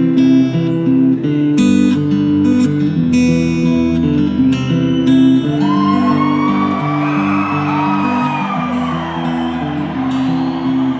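Live acoustic guitar strumming chords in an instrumental break of a country song. About halfway through, a higher melody line joins, sliding and bending in pitch.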